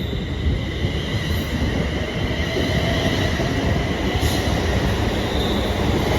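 Class 380 electric multiple unit running past a platform: a steady low rumble of wheels on rail with a high whine held steady throughout.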